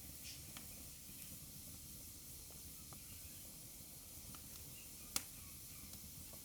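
Wood fire burning in a fireplace: a soft steady hiss with a few faint crackles, and one sharp pop about five seconds in.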